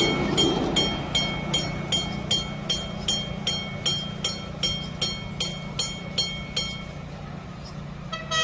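A bell rung in steady strokes, about two and a half a second, each strike ringing briefly, stopping about seven seconds in, over the steady low hum of a small electric train running. Near the end a short pitched sound with several notes begins.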